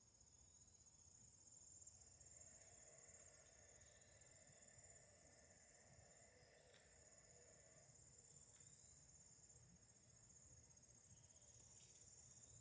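Faint cricket chorus: a steady, high, continuous trilling.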